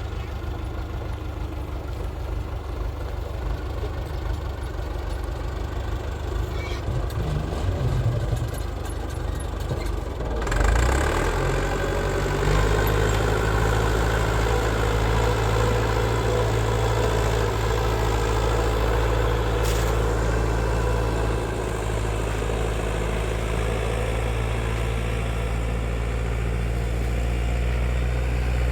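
An engine running steadily at idle. About ten seconds in it steps up and runs louder and fuller.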